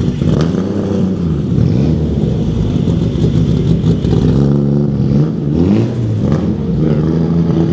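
Car engines revving and running at low speed, the engine pitch rising and falling several times with a steadier stretch around the middle.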